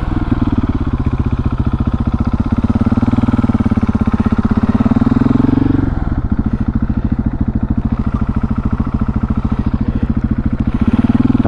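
Husqvarna 701's single-cylinder engine running under way. Its pitch rises steadily, drops suddenly about six seconds in, holds level, then starts climbing again near the end.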